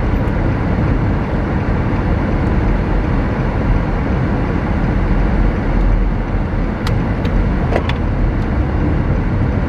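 Car driving, a steady rumble of road and engine noise heard inside the cabin, with a few light clicks about seven seconds in.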